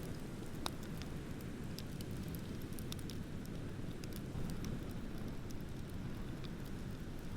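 Wood bonfire crackling, with scattered sharp pops and one louder pop about two-thirds of a second in, over a steady low rumble of ocean surf.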